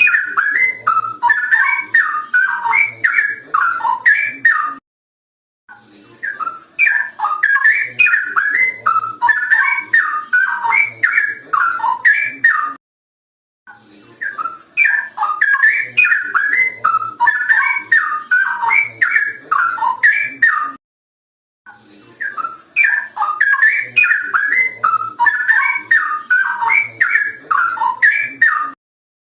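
Straw-headed bulbul (cucak rowo) singing rich, loud whistled phrases in runs of about seven seconds, each broken off by about a second of dead silence, as in a looped recording.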